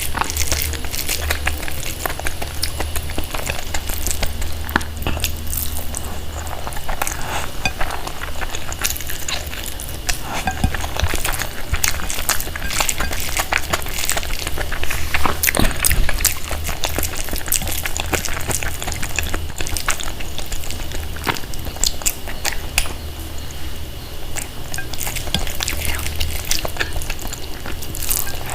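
Close-miked messy eating: wet mixing, smacking and chewing of food, with dense small clicks and crackles throughout, over a steady low hum.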